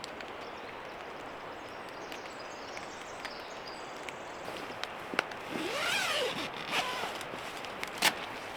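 Steady rain hiss. Past the middle, a zipper is pulled in one stroke, its buzz rising and then falling in pitch, with a few sharp knocks around it; the loudest knock comes near the end.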